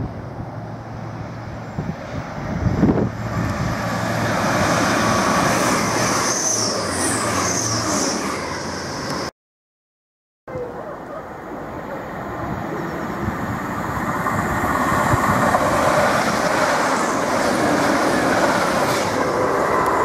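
Electric trains on a main line running through a station: first a train's steady low hum under a rising rush of wheel and rail noise, then, after a short break, another train approaching, its noise building over several seconds and holding.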